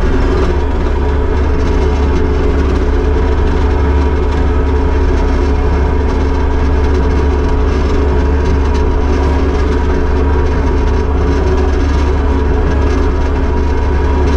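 Kubota SVL75-2 skid steer's diesel engine running steadily, a loud, even drone with several steady tones and no change in speed.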